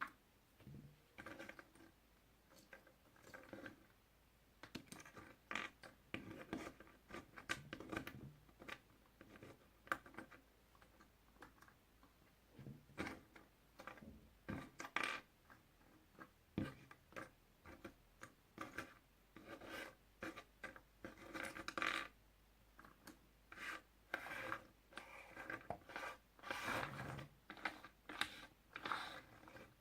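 Puzzle pieces being handled and fitted together: a stream of small, irregular clicks and rubbing scrapes.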